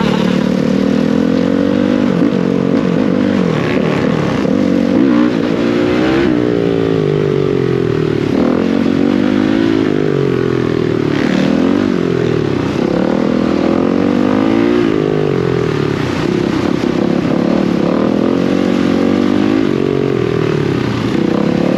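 Dirt bike engine running under way, its pitch climbing and then dropping again and again every couple of seconds as the throttle is opened and eased.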